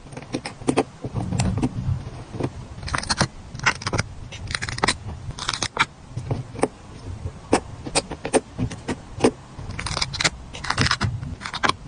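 Stickers being peeled off their backing sheets and handled, heard as irregular short crackly peels mixed with many sharp clicks and taps.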